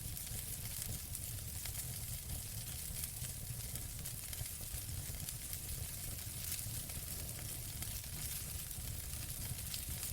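Wood fire in a fireplace crackling: a steady hiss scattered with many small pops, over a steady low rumble.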